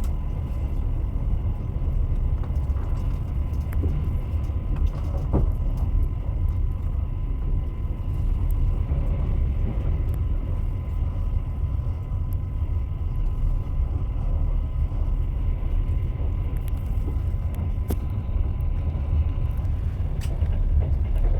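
Train running on rails: a steady low rumble of wheels and carriage, with a thin steady tone and a few faint clicks.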